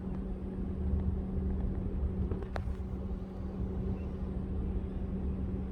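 A steady low rumble with a constant hum, with one faint click about halfway through.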